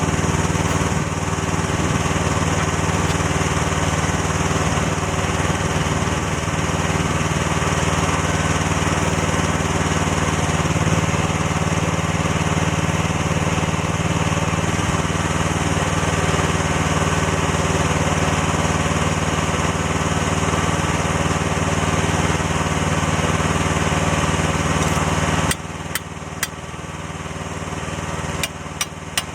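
Small excavator engine running steadily, dropping to a quieter, lower running level about 25 seconds in. A few sharp metallic knocks follow near the end.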